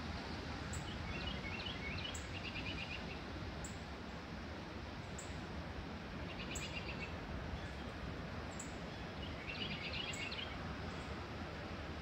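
A small songbird singing three short, rapid trilled phrases a few seconds apart, over a steady outdoor background rush.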